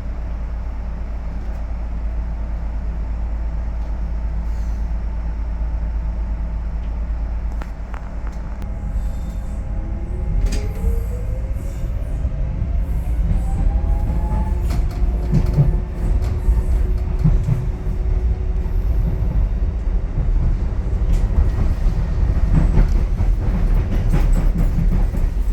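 Docklands Light Railway electric train heard from inside the carriage: a steady low hum while it stands, then a rising motor whine about ten seconds in as it pulls away and accelerates. This gives way to a louder rumble of wheels on the track with scattered clicks.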